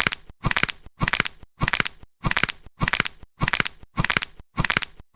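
Evenly spaced crunching strokes, about two a second, each a short gritty burst, repeating steadily.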